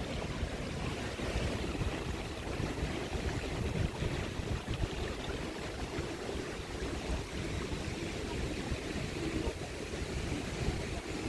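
Wind buffeting the microphone: an uneven low rumble with a steady hiss over it.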